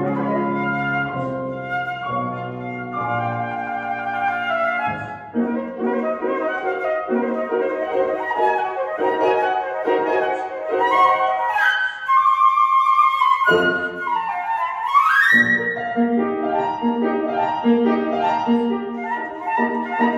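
Flute and piano playing classical music: a flute melody over piano accompaniment, with a quick rising flute run about fourteen seconds in.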